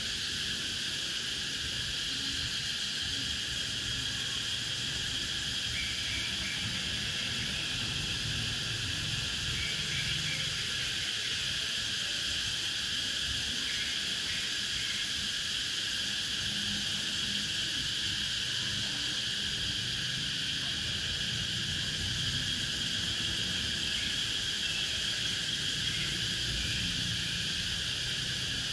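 Cicadas singing in a steady, continuous chorus, with a few short faint calls breaking in now and then.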